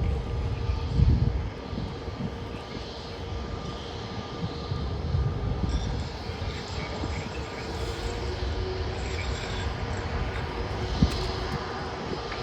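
Jet airliner on approach, its engines giving a steady low rumble with a faint constant whine.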